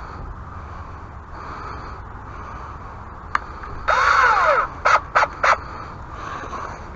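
A crow cawing: one longer caw about four seconds in, followed quickly by three short caws.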